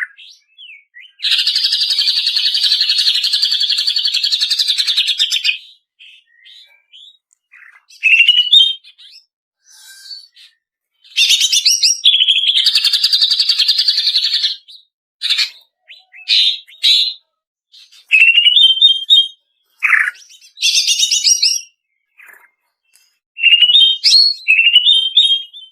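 Female greater green leafbird (cucak ijo) singing: long, fast chattering trills lasting several seconds, alternating with short whistled phrases and quick runs of notes, with clean silent gaps between phrases.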